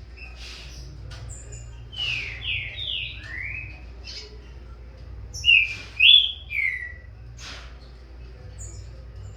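Green-winged saltator (trinca-ferro) singing: two short phrases of loud, slurred whistled notes that fall in pitch, a few seconds apart. Faint short chirps come between them.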